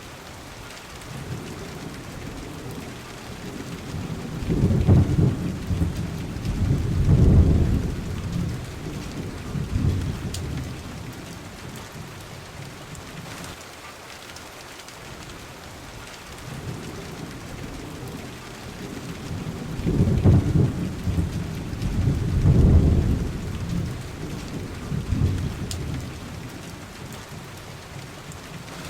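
Steady rain hissing, with two long rolls of thunder. Each rumble swells over a few seconds, peaks twice and fades away; the first comes a second or so in, the second about halfway through.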